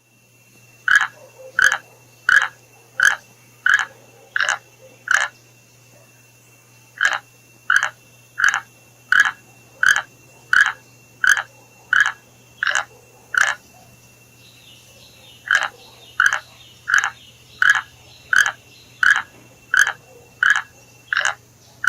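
A frog calling: short croaks repeated about one and a half times a second, in three runs of seven to ten calls with pauses of about two seconds between them. A faint steady high tone lies beneath.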